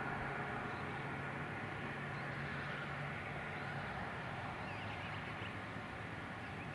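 Outdoor ambience: a steady background hiss with a low hum that fades about three seconds in, and a few faint chirps around five seconds in.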